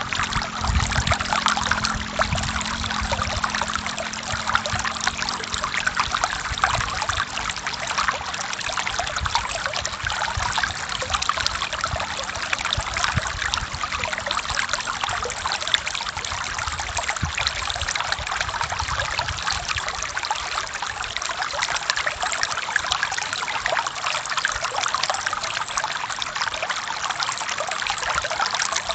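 Forest stream flowing steadily, a constant rush of running water with no breaks.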